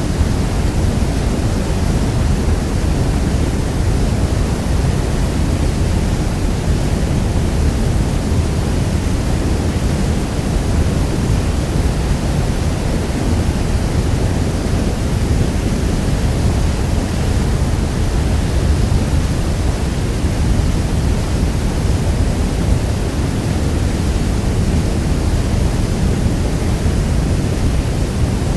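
Niagara Falls: falling water in a steady, deep, unbroken rush of noise, heaviest in the low end.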